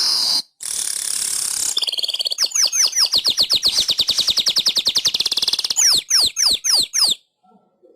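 Manyar (weaver bird) singing: a buzzy, wheezing hiss, then a fast run of downward-sliding notes at about ten a second. It ends in a few slower, louder down-slurred notes that stop a little before the end.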